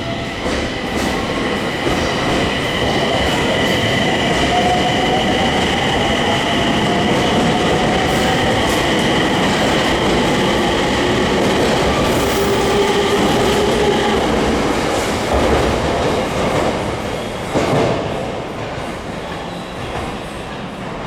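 A train moving through the station close by, a steady high-pitched whine or squeal over the running noise, with slowly rising tones underneath. It grows louder over the first few seconds, holds, then eases off, with two sharp knocks near the end.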